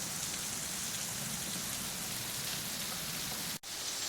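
Steady rush of a stream and waterfall, flowing naturally after recent rain. The sound cuts out for an instant near the end.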